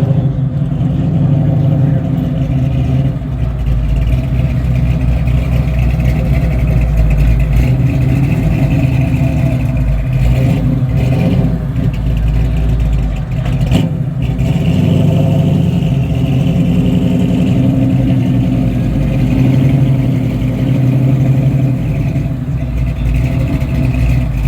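A car engine running loud and close, with a low, steady rumble whose level rises and falls a little.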